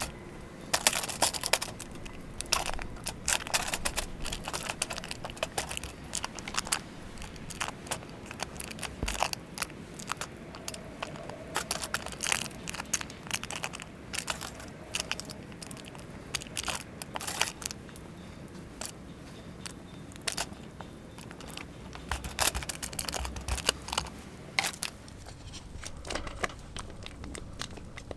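Hands working raw bacon and its plastic packaging: irregular crinkling, peeling and tearing with many small clicks, as strips are pulled apart and laid out.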